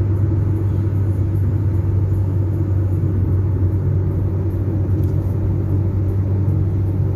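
Car driving steadily: an even, low rumble of engine and road noise.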